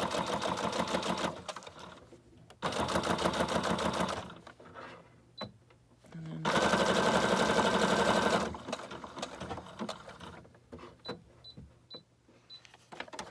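Sewing machine stitching in three short runs of one to two seconds each, the last the loudest. Between the runs and after them come a few light clicks.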